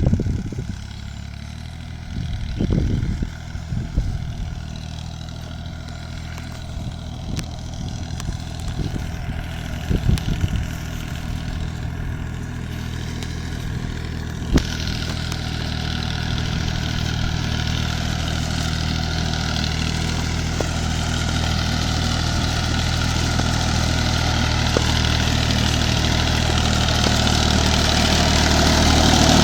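Mini tractor engine running steadily, with a few knocks in the first seconds. About halfway through a hiss sets in and the sound grows gradually louder.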